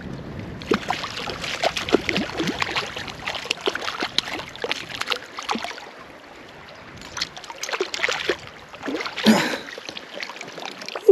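Irregular splashing and sloshing of water with many small clicks and knocks, starting about a second in, easing off briefly midway and peaking near the end.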